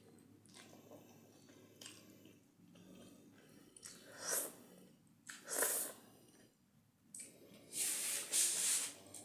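A person eating spicy cheese noodles close to the microphone: quiet chewing, then several sudden slurps. The longest and loudest slurp comes near the end.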